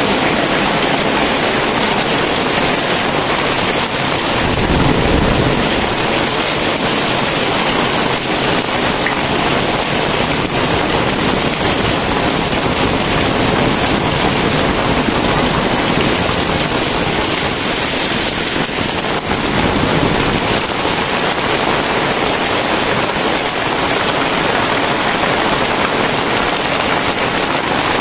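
Very heavy rain falling steadily: a dense, even hiss of downpour. About five seconds in there is a brief low rumble.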